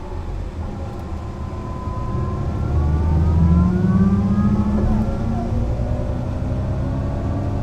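Mercedes-Benz O 405 NÜ bus's diesel engine pulling away under acceleration, its pitch climbing steadily, then dropping sharply about five seconds in as the gearbox shifts up, and climbing again.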